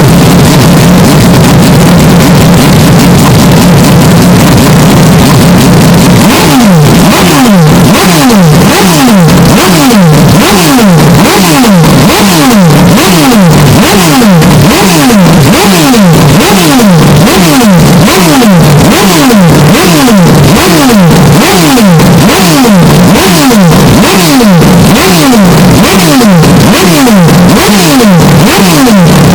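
Hyundai Elantra N's turbocharged 2.0-litre four-cylinder idling, then about six seconds in revved in quick repeated throttle blips, more than one a second, the pitch falling back after each. The audio is heavily over-amplified and distorted.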